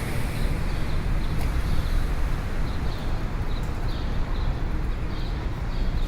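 City street ambience: a steady rumble of traffic noise, with short high chirps recurring irregularly over it.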